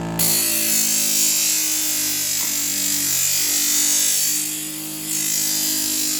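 Knife blade ground against the spinning wheel of an electric scissor-sharpening machine: a loud, steady grinding hiss over the motor's hum. The hiss eases off for a moment about four and a half seconds in, then resumes as the stepped part of the edge is reshaped into a gentler bevel.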